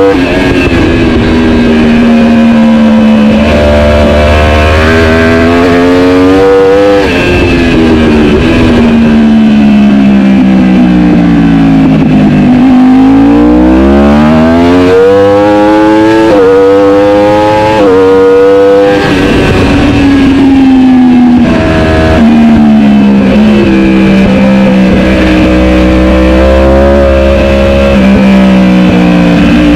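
Superbike racing motorcycle engine at full race pace. Its pitch climbs hard, drops in sharp steps at gear changes and slides down under braking, then climbs again several times.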